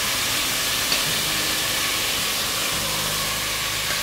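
Chicken frying in hot ghee, giving a steady sizzling hiss.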